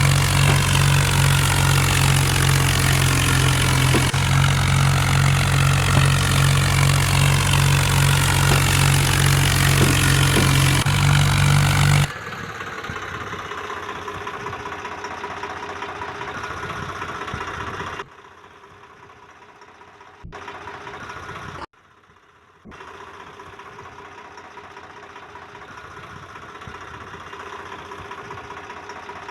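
Tractor engine running loudly with a steady low throb. About twelve seconds in it cuts abruptly to a much quieter running engine, broken by several more sudden cuts and short dips in level.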